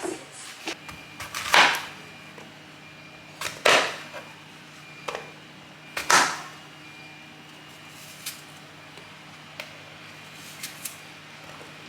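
Three short swishing noises about two seconds apart, each led by a sharp click, with a few lighter clicks and taps between and after them, over a faint steady hum.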